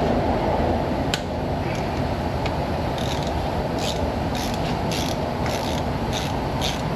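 Hand-tool work under a car: light metallic clicks and scrapes, with one sharp click about a second in, over a steady rushing background noise.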